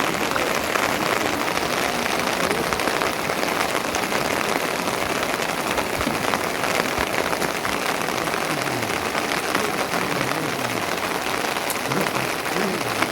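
Steady rain falling, a dense hiss full of tiny drop ticks.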